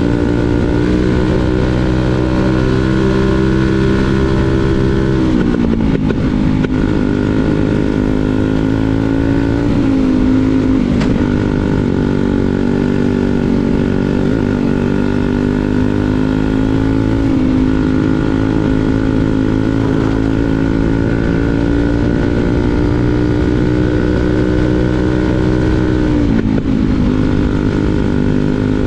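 Briggs & Stratton 206 single-cylinder four-stroke kart engine running at high revs on track. Its pitch drops sharply three times, about 5, 10 and 26 seconds in, as the kart slows for corners, then climbs steadily back up each time.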